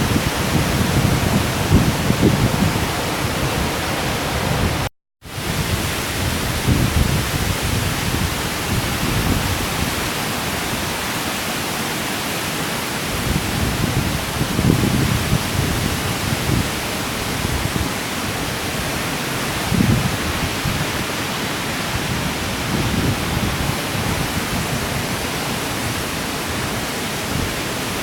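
Waterfall: a steady rush of falling water, with uneven low rumbles coming and going. The sound cuts out completely for a moment about five seconds in.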